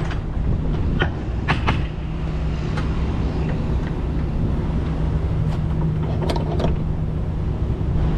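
Kenworth T680 semi-truck's diesel engine running steadily with a low hum, with a few short clicks or knocks over it about a second in and again about two-thirds of the way through.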